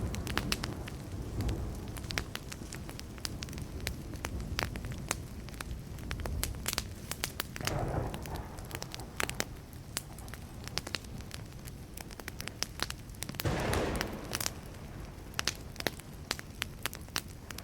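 Wood campfire burning with a steady crackle of sharp pops and snaps. Distant thunder rumbles briefly twice, about eight and fourteen seconds in.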